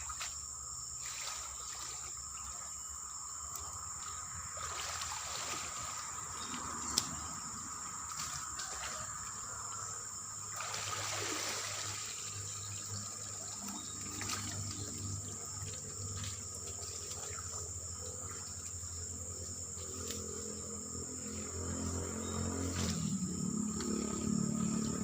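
Shallow swamp water splashing and trickling as it is worked through, with a steady high insect drone behind it. There is a single sharp click about seven seconds in.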